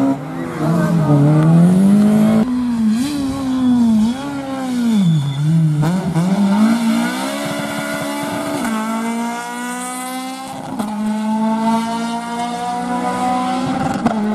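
Rally car engine driven hard on a stage: the revs dip and rise several times, then climb steadily through the gears, with two sudden drops in pitch at the upshifts in the second half.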